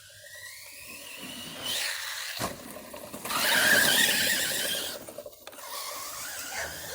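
Electric RC truck's motor whining up in pitch as it accelerates, then a sharp thump about two and a half seconds in, typical of a landing from a jump. A louder stretch of spinning tyres and motor noise follows and then eases off.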